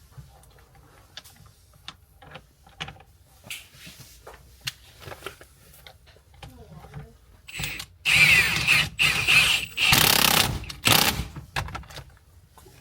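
Light clicks and knocks of parts being handled, then a cordless power tool run in three short bursts near the end, fastening the steering wheel back onto the column.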